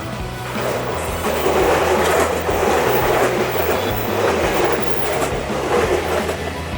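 A train passing, its wheels clattering on the rails. The noise swells about a second in, is loudest around two to three seconds in, and eases off near the end, with background music underneath.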